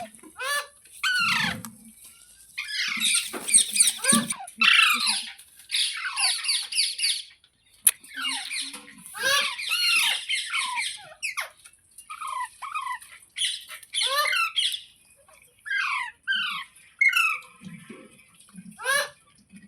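Ringneck parakeet squawking and chattering: bouts of rapid, shrill, down-slurred screeches, with single calls in between.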